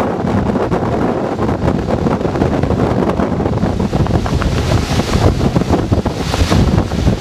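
Strong, gusty wind buffeting the microphone: a loud rumble with louder rushing gusts about five seconds in and again near the end.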